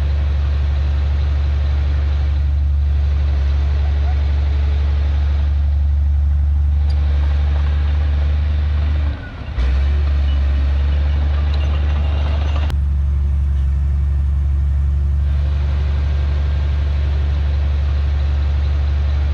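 Heavy diesel engine of earthmoving machinery running steadily with a deep drone, dipping briefly about halfway through.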